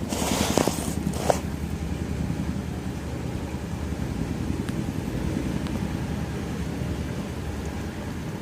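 Boeing CH-47 Chinook tandem-rotor helicopter flying past with a steady low rotor and engine drone. A short burst of hiss and a click come in the first second or so.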